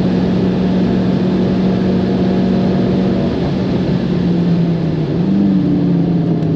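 Abarth Grande Punto's turbocharged 1.4-litre four-cylinder engine running at high, nearly steady revs under load, its note dipping slightly about three seconds in, over road and wind noise.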